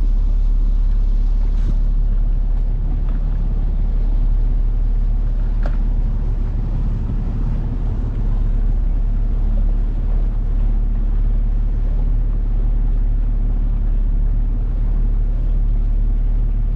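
A small boat's 9.8 hp outboard motor running steadily under way, a constant low drone with no change in speed.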